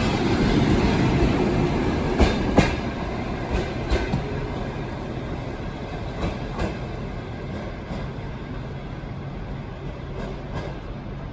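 Trans-Siberian Railway passenger train rolling out, its wheels clacking over rail joints now and then over a steady rumble. The sound slowly fades as the train moves away.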